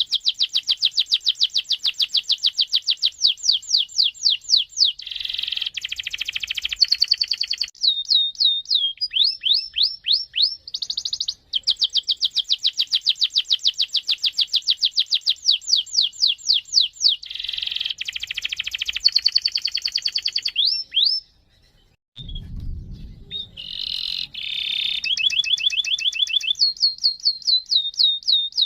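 Domestic canary singing a long rolling song: fast trills of rapidly repeated high sweeping notes lasting several seconds each, broken by denser, buzzier phrases and a few short pauses. A brief low rumble comes about two-thirds in.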